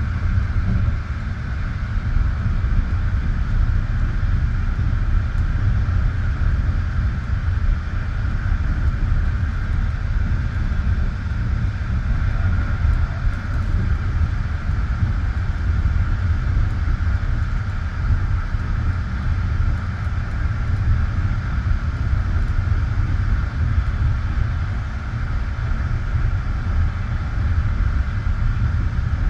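Passenger train running at speed between stations, heard from inside the carriage: a steady low rumble of the wheels on the rails with a constant higher-pitched hum over it.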